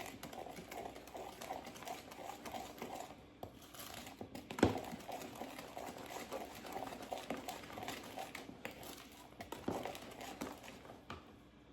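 A utensil stirring a thick pudding mixture by hand in a bowl: a fast run of light clicks and scraping against the bowl, with a sharper knock about four and a half seconds in and another near the end.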